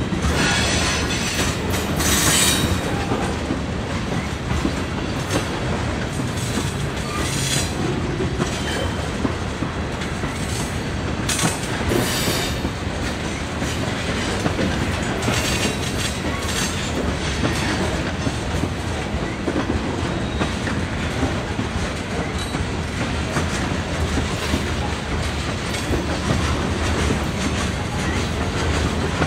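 Potash covered hopper cars of a freight train rolling past, a steady rumble with wheels clattering over the rail joints. Brief high-pitched wheel squeals rise over it now and then.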